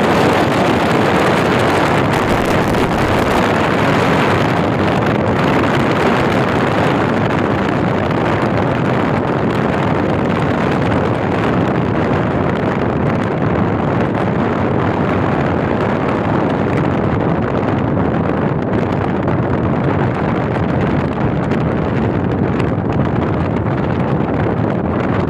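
Heavy wind blowing over the microphone: a loud, steady rushing noise, a little hissier in the first few seconds.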